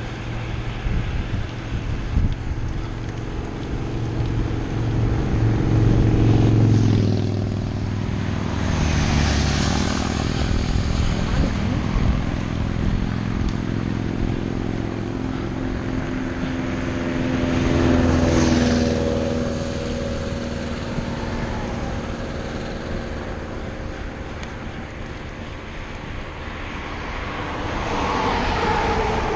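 Motor vehicle engines droning over road and wind noise, swelling three times as they pass by, with the pitch falling near the end.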